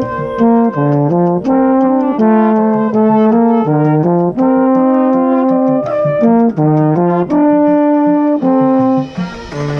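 Marching band brass playing a melodic passage of held and moving notes, with the lead marching baritone horn nearest the microphone.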